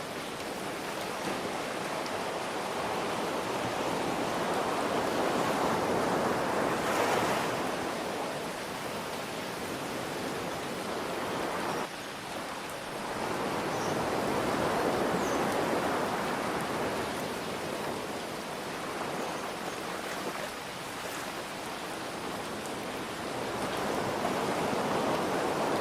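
Ocean waves breaking and washing in, swelling and easing in slow surges about every nine seconds, over a steady hiss of rain.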